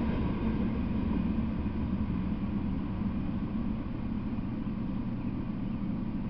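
Low rumble of a passing freight train dying away after its last car goes by, fading steadily.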